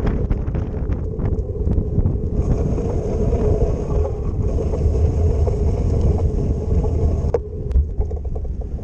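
Wind buffeting the microphone over the steady rumble of a bicycle ride on city streets. A thin high hiss joins in about two and a half seconds in and stops abruptly near the end.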